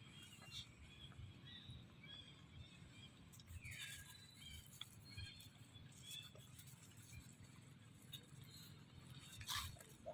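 Near silence: faint outdoor ambience with a few faint, short high-pitched chirps and one falling call about three and a half seconds in.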